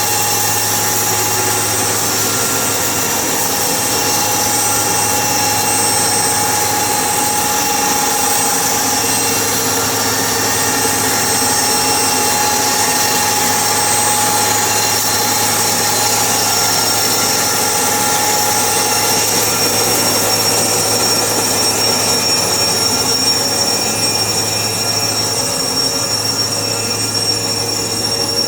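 Sawmill machinery running steadily: a constant mechanical drone with a low hum and high, even whines, dipping slightly in level near the end.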